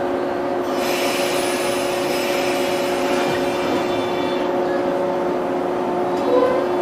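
JR 103-series electric train humming steadily, with a layer of hiss that comes in about a second in and fades out a few seconds later.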